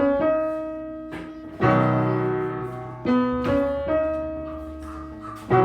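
Slow piano music: notes and chords struck every second or two, each ringing on and fading away.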